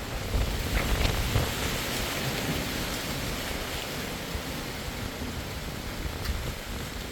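Autumn wind blowing steadily through trees, a continuous rush with a few faint leaf rustles and a low, gusting rumble.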